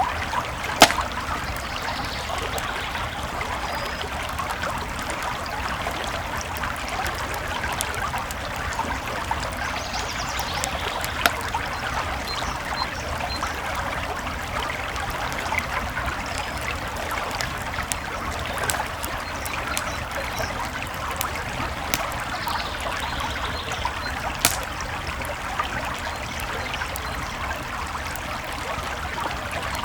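Creek water flowing and trickling steadily, with a wood campfire crackling over it and a few sharper pops, the loudest about a second in.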